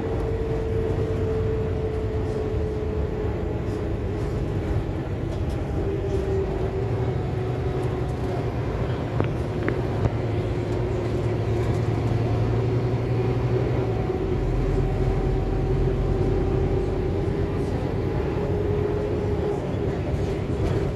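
Scania K280UB city bus under way, its engine and drivetrain giving a steady drone with a whine that slowly dips and rises in pitch as the bus's speed changes.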